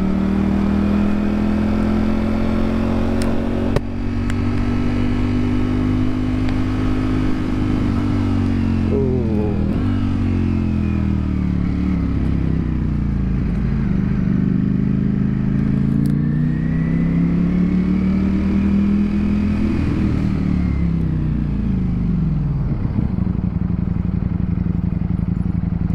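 Ducati Streetfighter V4's four-cylinder engine running under way, its pitch rising and falling as the rider rolls on and off the throttle. The pitch drops about four seconds in, climbs again briefly a few seconds later, rises steadily for several seconds past the middle, then falls away and settles to a steady lower note near the end.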